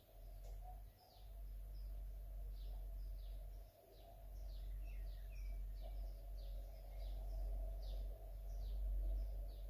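Birds chirping, many quick falling chirps in a busy run, over a low steady rumble.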